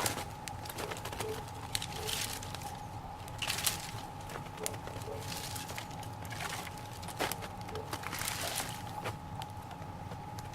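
A small fire of damp raspberry canes and boards burning, lit with a little gasoline in a tin can: scattered crackles and pops with a few soft rushing swells of flame.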